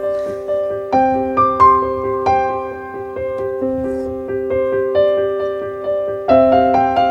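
Background piano music, gentle notes struck at a slow, even pace.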